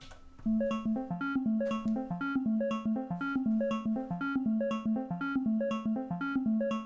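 Waldorf Iridium synthesizer playing a looping step-sequencer pattern: a fast, even run of short synth notes over a few pitches, starting about half a second in.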